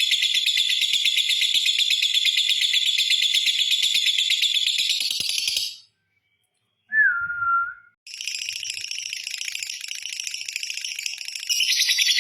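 Lovebird's long 'ngekek' song: a fast, unbroken chattering trill that cuts off abruptly about six seconds in. After a short gap comes a single brief falling note, then the trill starts again about eight seconds in and grows louder near the end.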